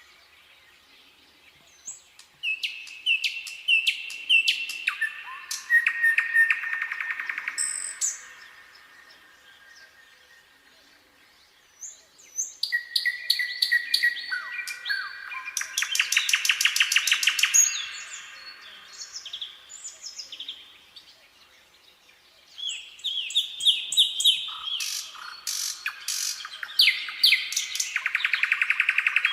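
Nightingale singing: three phrases of rapid repeated notes, whistles and trills, separated by pauses of a few seconds.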